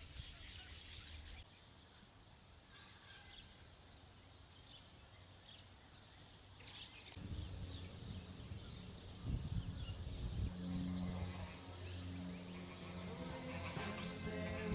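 Outdoor park ambience with scattered bird calls, quiet in the middle, then a low steady hum that builds up in the second half.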